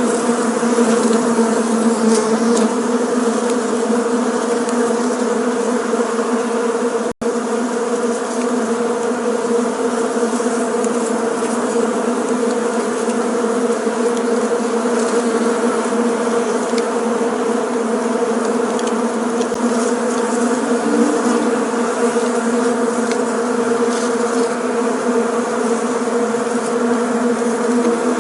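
Many bees buzzing together in a steady, dense hum. The sound cuts out for a split second about seven seconds in.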